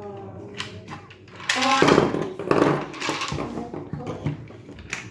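Electronic voice and sound effects played through the small speaker of a Hello Kitty shape sorter toy, in short phrases with changing pitch, with sharp plastic clicks between them.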